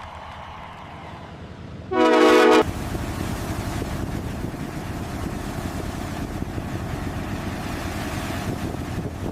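A ship's horn sounds one short, loud blast about two seconds in. A steady rushing, rumbling noise of wind and water follows.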